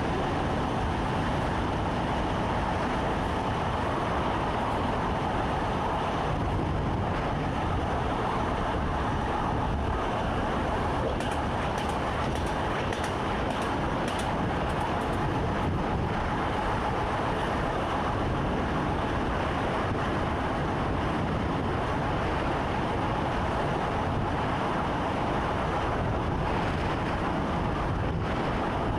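Train running along the track, heard from inside the driver's cab: a steady rumble of wheels and running gear.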